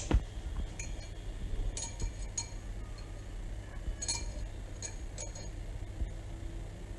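Scattered light clinks and taps against a bowl as a chicken leg piece is dipped and turned in beaten egg wash.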